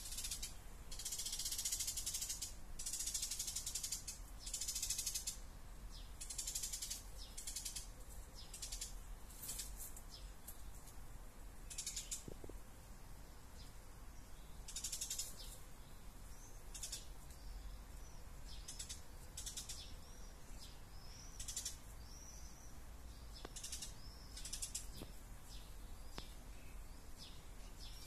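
Birds calling: a run of short, rasping, rattling high-pitched calls, packed close together at first and then spaced out, with a few thin chirps in the second half.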